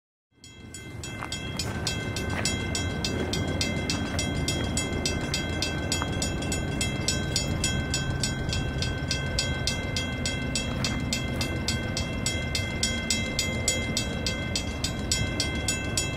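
Passenger train approaching from a distance: a steady rumble with several steady high tones and a fast even ticking, fading in at the start.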